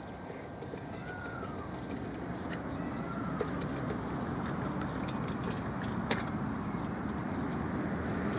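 Bird calls, three short arching whistles in the first few seconds, over a broad traffic noise that grows steadily louder, with a few faint sharp clicks.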